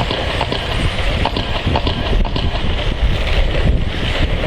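Wind buffeting the microphone over a pack of electric 13.5-turn brushless RC stadium trucks running laps on a dirt oval, their motors and tyres making a steady high hiss, with scattered sharp clicks and knocks.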